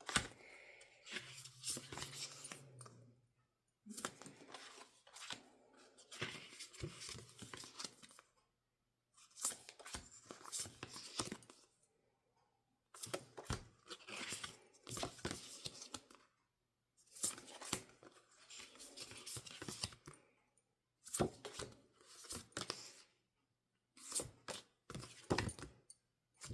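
Paper and plastic packaging rustling and tearing in short bursts with brief silent pauses between, as wrapped items from a boxed merchandise set are handled and opened.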